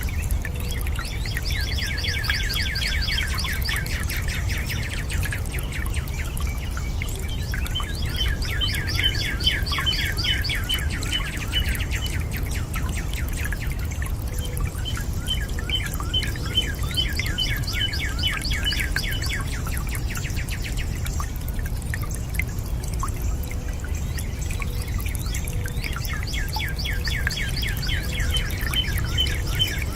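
A bird singing a fast trill of many rapid high notes, each song lasting about three to four seconds and repeated four times with short pauses between, over a steady low rumble.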